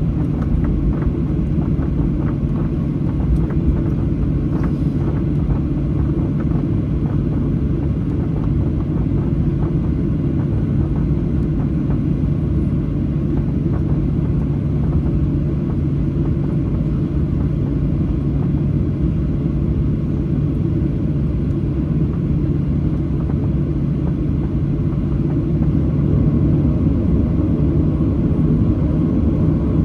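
Cabin noise of a Boeing 737-800 taxiing: a steady low rumble with the even hum of its CFM56-7B jet engines. Near the end the hum edges up in pitch and grows a little louder.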